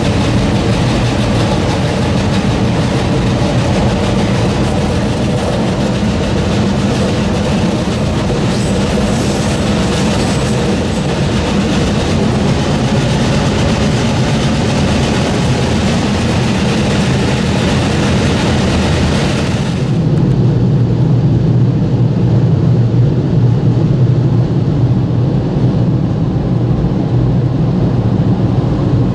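Vereina car-shuttle train of the Rhaetian Railway running through a tunnel, heard from inside a car carried on one of its wagons: a steady rumble and rattle of wheels on rail. About 20 seconds in, the hissy upper part of the noise drops away and a deeper rumble is left.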